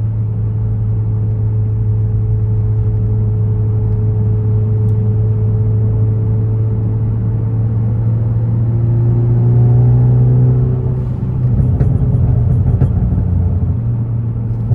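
A 2014 Ford Focus ST's turbocharged 2.0-litre four-cylinder engine and exhaust droning steadily while driving. The engine note rises and grows louder about two-thirds in, then drops off, with a few faint cracks from the exhaust's stratified pop-and-crackle tune as it lets off.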